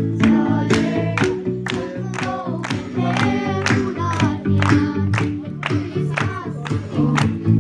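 Singing to strummed acoustic guitar, the strokes falling about twice a second in a steady rhythm.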